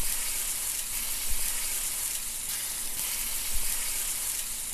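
Steady sizzle of food frying on a hot surface, a dense, even hiss.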